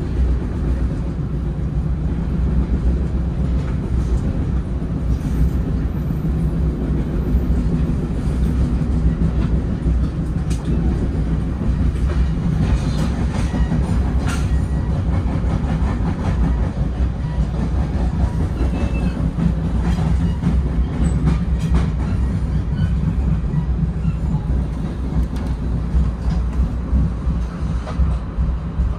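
Bombardier Comet IIM commuter rail coach running on the tracks, heard from inside the car: a steady low rumble with scattered clicks from the wheels.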